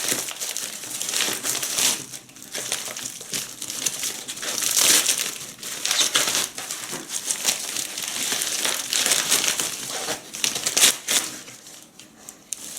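Parcel packaging being opened by hand: irregular crinkling and rustling of the wrapping in uneven surges, easing off near the end.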